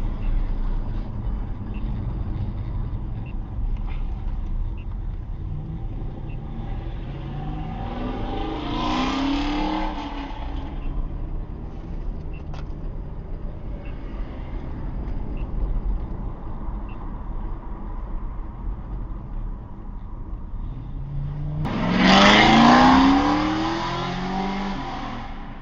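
Chevrolet Camaro V8 rumbling at low revs, then accelerating hard twice with a rising engine pitch: first about eight seconds in, then louder near the end.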